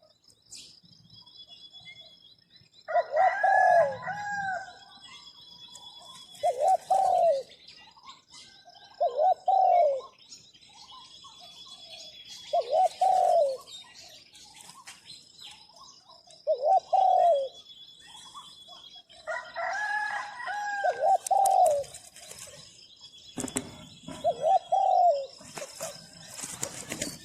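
A zebra dove cooing its song in a series of separate phrases, about eight in all, each a short run of rising-and-falling notes.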